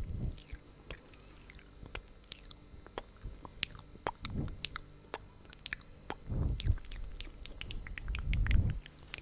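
Close-miked wet mouth sounds from glossed lips: irregular sticky lip smacks and tongue clicks, with four low, muffled swells in between.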